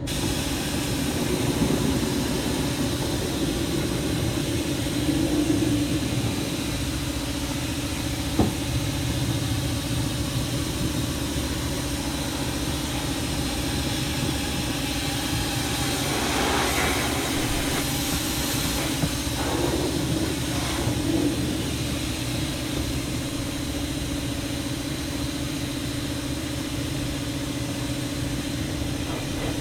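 Air compressor motor running steadily, feeding an undercoating spray gun, with the hiss of spraying air over it. There is a single sharp click about eight seconds in.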